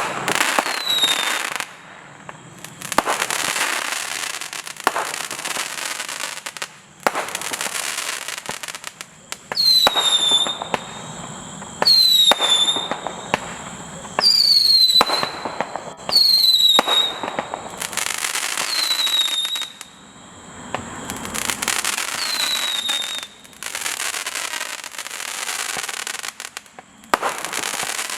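BlackCat 'The Magician' firework firing a series of shots. Each shot brings a brief whistle that falls slightly in pitch, followed by several seconds of dense crackling, with the bursts starting and stopping abruptly.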